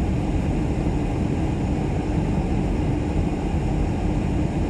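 Steady low rumble inside a parked vehicle in a blizzard, from wind against the vehicle and its running engine.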